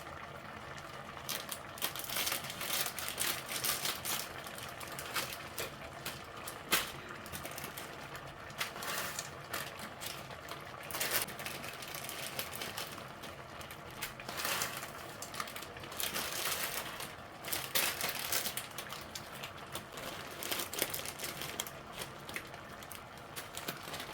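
Plastic instant-noodle packets crinkling and rustling as they are handled and opened, with irregular short crackles throughout.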